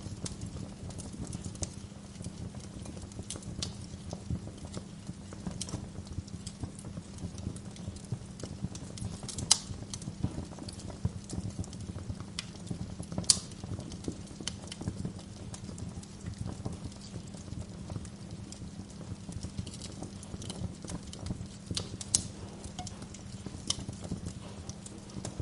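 Wood fire crackling with a steady scatter of small ticks over a low rumble, with three sharper pops at about ten, thirteen and twenty-two seconds in.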